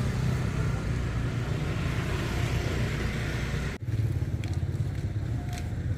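A motor vehicle engine running steadily with a low hum. The sound breaks off abruptly for an instant about four seconds in, then carries on with a few light clicks.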